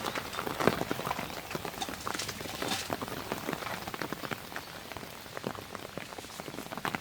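Rain falling and striking a nearby surface, heard as a steady hiss dotted with many irregular, closely spaced drop ticks.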